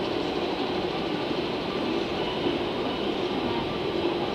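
Steady running rumble of a diesel railcar moving slowly toward the listener through a railway yard.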